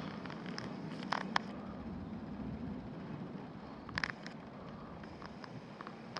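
Outdoor ambience: a steady low rumble like distant road traffic, with a few short sharp crackles about a second in and again near four seconds.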